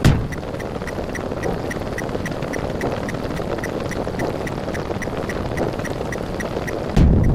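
A dense wash of rapidly repeating, overlapping cartoon and meme sound effects, making a steady rumbling noise with regular ticks about four or five a second. There is a sharp hit at the start, and a louder low rumble comes in near the end.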